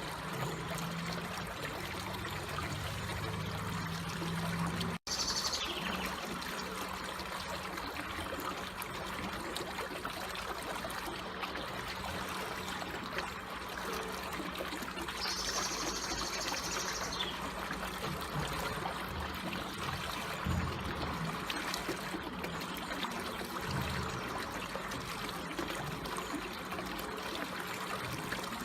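Water flowing slowly, a steady gentle trickle. The sound drops out for an instant about five seconds in.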